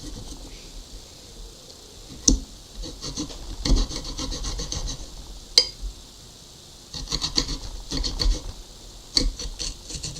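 Raw potato being cut into thin slices on a board, in runs of quick strokes with a few sharp knocks in between.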